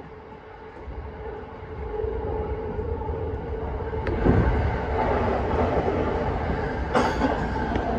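JR East E233 series electric train running, heard from the cab as it pulls into a station, with steady running noise that grows louder as another train passes alongside about four seconds in. A sharp clack comes near the end.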